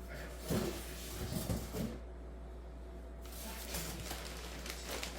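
Handling of the cardboard box and padding around an espresso machine: a few light knocks and rustles, about half a second in and again around a second and a half in.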